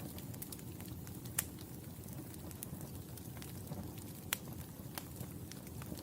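Wood fire burning in a fireplace: a steady low rumble of flames with scattered crackles. Sharp pops stand out about a second and a half in and again just after four seconds.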